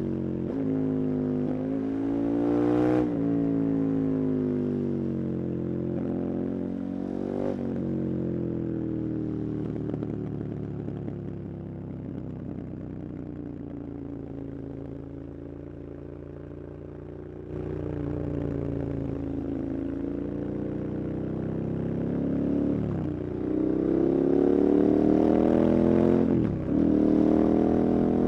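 KTM 1290 Super Adventure's V-twin engine pulling hard through the gears, its pitch climbing and dropping sharply at each quick upshift. Through the middle it eases off and winds down, quieter, on a closed throttle, then about two thirds in the throttle opens again and it climbs through two more quick shifts.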